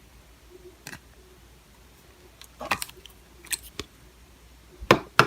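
Slime being pressed and poked by hand, giving a few scattered sharp clicks and short squelchy crackles, the loudest near the end.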